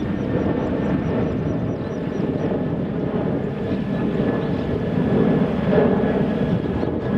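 Jet airliner engines at takeoff power: a loud, steady noise with a faint high whine, cut off abruptly at the end.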